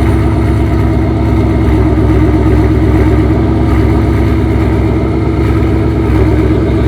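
A 5.0-litre V8 car engine idling steadily, its exhaust pipes humming loudly.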